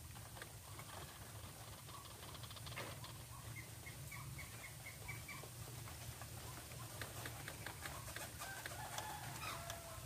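White-breasted waterhen calling: a run of short repeated notes in the middle, then clicks and a falling call near the end, over a steady low hum.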